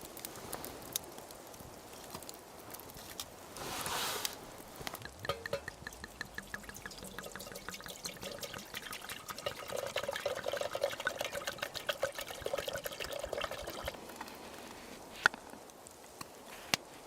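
Liquid being poured and trickling, with many small splashing ticks over most of the stretch. Two sharp clicks near the end.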